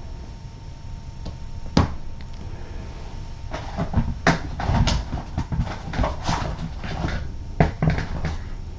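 Handling noises as a cat is held and medicated: a run of irregular clicks, knocks and rustles, busiest in the second half.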